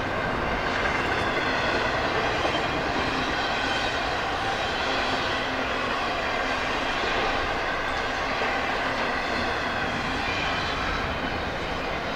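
Freight train running past, a steady, even rumble of wheels on rail with no horn.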